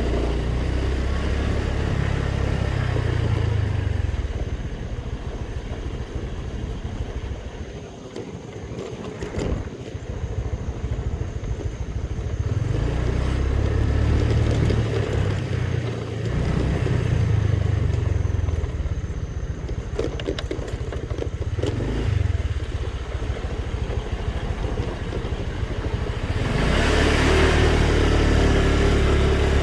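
Motorbike engine running during a ride, rising and falling in level, louder near the end.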